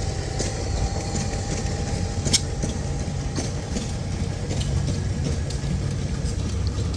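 Antique stationary hit-and-miss gas engines running together, a steady low engine rumble, with one sharp click a little over two seconds in.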